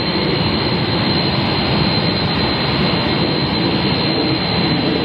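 Jet airliner engines running: a steady, loud rush of noise with a thin, high, steady whine.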